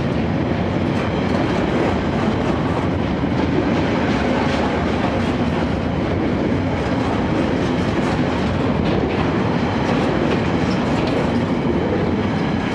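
Freight train hauled by a Class 66 diesel locomotive rolling steadily past, its wagons' wheels clicking over the rail joints.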